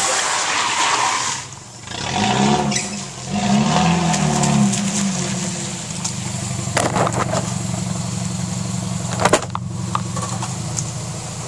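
Car engine revving up and down twice, then running steadily, with two sharp knocks partway through.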